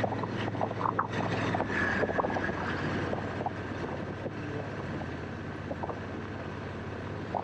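2019 Honda Africa Twin DCT's parallel-twin engine running steadily under way, with wind rushing over the microphone and scattered short clicks.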